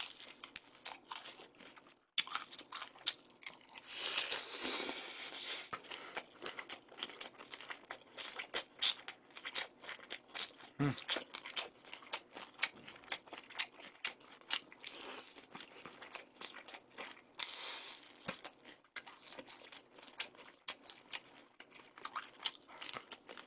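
Close-up chewing of a bite of gorgonzola pizza topped with honey, bean sprouts and octopus: continuous wet chewing with many small crunches and mouth clicks.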